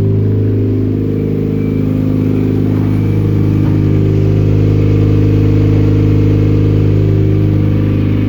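Mazda Demio's 1.3-litre ZJ-VE four-cylinder petrol engine running steadily without a muffler, so the exhaust is loud.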